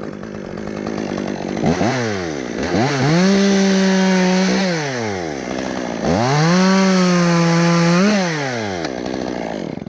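Chainsaw idling, then run up to full throttle twice, each time held steady for about two seconds while cutting into a pine limb, and dropping back to idle in between and afterwards.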